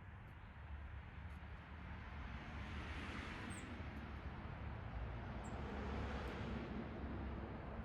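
A vehicle passing on a nearby road, its noise swelling and fading away, over a steady low traffic rumble, with a couple of short high chirps from small backyard birds.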